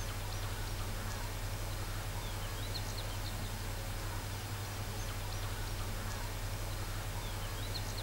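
Birds chirping now and then, with short whistled chirps clustered about three seconds in and again near the end, over a steady low hum.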